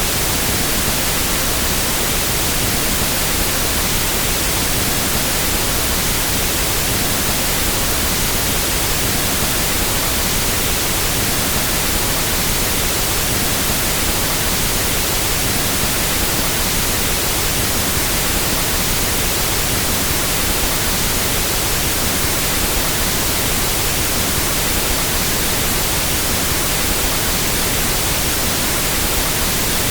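Pink noise test signal: a steady, even hiss across the whole range of pitch, unchanging, as used for equalizing sound systems.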